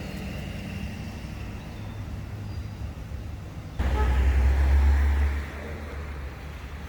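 Road traffic rumbling steadily, with a much louder low rumble that starts suddenly just past halfway and lasts about a second and a half, like a car going by close.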